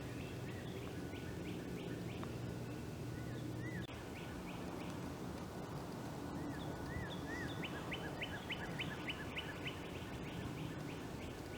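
Wild birds calling and singing, with rapid series of short, sharp rising notes and a few brief whistles, over a low steady rumble of background noise.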